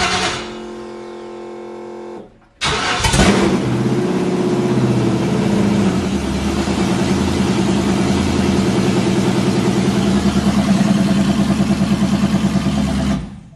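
Chevrolet 5.3 LS V8 on open headers catching about two and a half seconds in after a steady whine, then running very loud with an even pulsing beat until it cuts off near the end. It is hard cranking and slow to fire.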